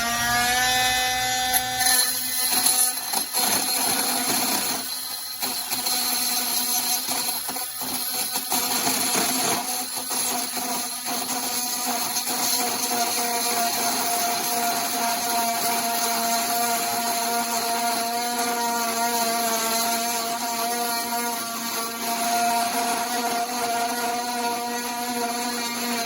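KIMO 20V cordless oscillating multi-tool with a metal-cutting blade, cutting into a piece of metal: a steady motor whine at constant speed under a rough, rasping cutting noise. The cutting noise is uneven for the first ten seconds or so, then settles.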